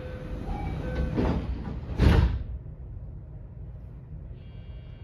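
Sliding passenger doors of a JR West 321 series electric train closing, heard from inside the car. There are two thuds as they shut, the louder about two seconds in. A low rumble follows, and near the end a set of steady high tones begins.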